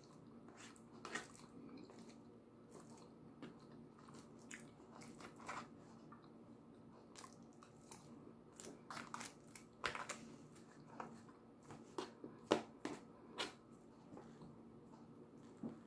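Faint close-up mouth sounds of a person eating poutine: chewing fries and cheese curds in gravy, with scattered wet smacks and clicks, the loudest about twelve and a half seconds in.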